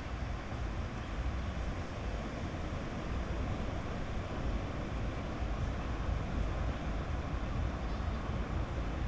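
Sea waves washing steadily onto a beach, a continuous surf noise with a deep low rumble.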